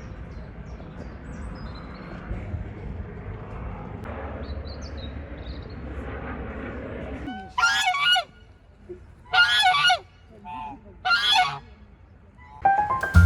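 Geese honking: three loud honks in the second half, each about half a second long. Before them there is a steady low rumble with faint high chirps.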